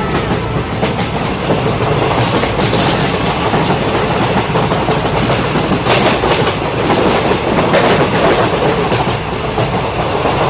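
Model train running on a diorama track: a steady clatter of wheels and motor, with sharper clicks over the rail joints, more pronounced past the middle.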